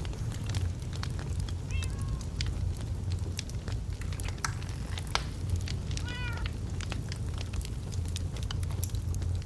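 Wood fire crackling and popping over a steady low rumble. Two short squealing calls are heard, one about two seconds in and a longer one about six seconds in.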